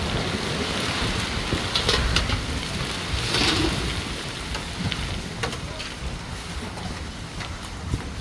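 Heavy storm rain pouring down steadily, swelling louder about three and a half seconds in, with scattered sharp taps of drops striking nearby surfaces.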